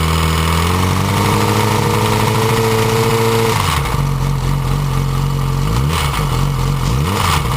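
Yamaha R6 inline-four engine, timing cover off, revved up and held for about three seconds, dropping back to idle, then blipped twice. At higher revs the cam chain rattles and jumps, a noise the owner traced to a faulty cam chain tensioner.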